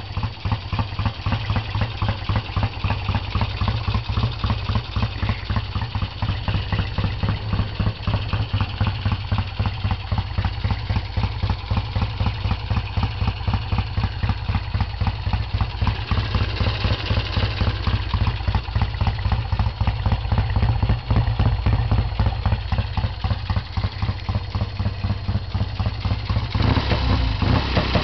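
1967 Triumph TR6 motorcycle's 650 cc parallel-twin engine idling with a steady, even pulse of exhaust beats.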